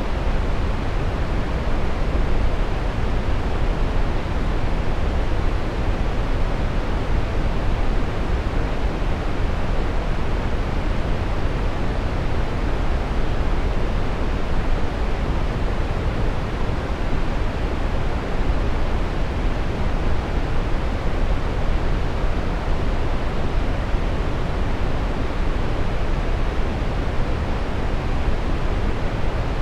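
Steady brown noise: an even, deep rumbling hiss with most of its energy low down, unchanging throughout.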